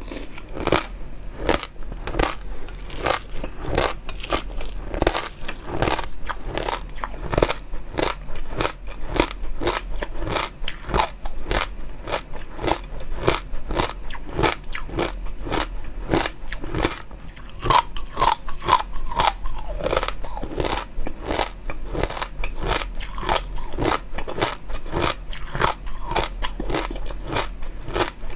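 Close-miked chewing and biting of food, with a dense, irregular run of crisp crunching clicks.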